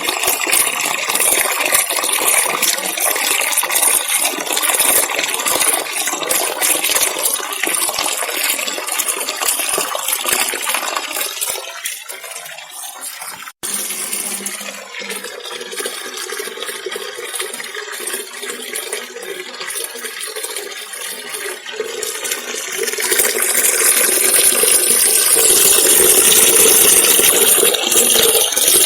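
Waterfall rushing: a steady wash of falling water that thins a little before halfway, breaks off for an instant, and grows louder over the last few seconds.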